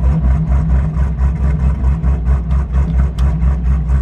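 Cammed 6.2 L LS3 V8 of a 2011 Camaro idling through a straight-piped exhaust with its muffler deleted. The idle is loud and rough, pulsing evenly about three times a second, the lope of the aftermarket cam.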